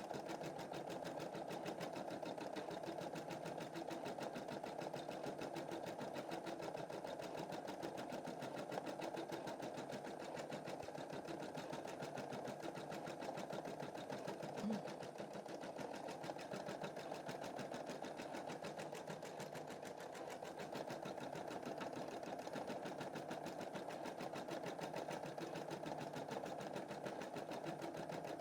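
Computerized embroidery machine stitching a design at speed: a steady, rapid needle chatter with a brief louder blip about halfway through.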